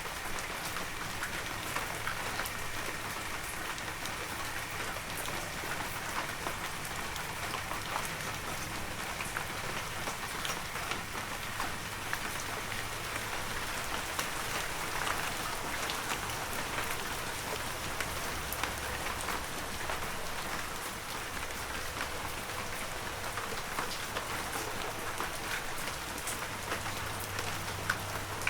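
Steady heavy rain falling, a dense even hiss dotted with the sharp ticks of individual drops.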